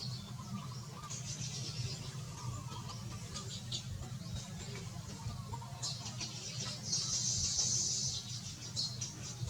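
Baya weavers chirping in short high notes, with a longer buzzy call about seven seconds in, over a steady low hum.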